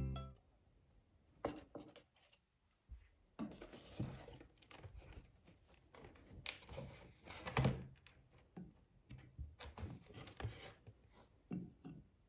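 Faint handling noises: scattered light knocks and clicks with soft rustling, as objects are picked up and set down.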